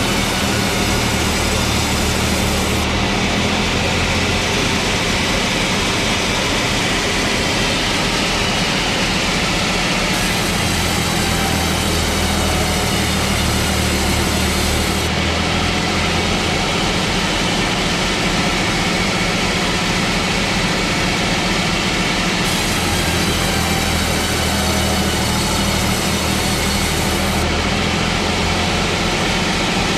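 Large sawmill machinery running steadily: a low engine hum under a constant loud mechanical noise, with the tone shifting slightly at several points.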